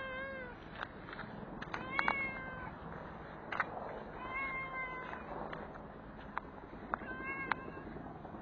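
A stray cat meowing repeatedly, a short meow about every two seconds, with a few sharp clicks in between.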